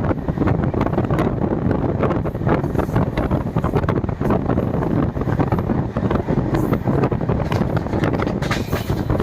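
Loud, steady wind buffeting on the microphone, a rough low rumble with irregular crackles.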